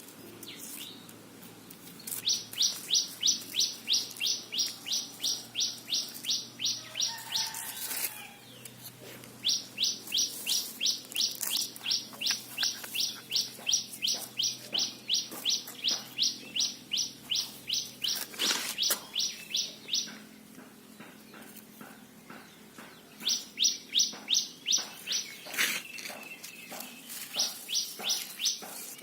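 Squirrel alarm-calling, startled: long series of sharp, evenly repeated chirps, about three a second, in several bouts separated by short pauses.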